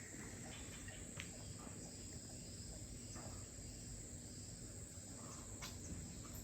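Faint, steady high-pitched drone of rainforest insects such as crickets, with a few soft clicks scattered through it.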